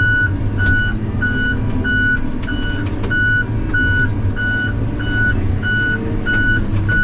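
Backup alarm on heavy diesel logging equipment beeping steadily, about two beeps a second, over the low, steady drone of the running engine: the machine is reversing.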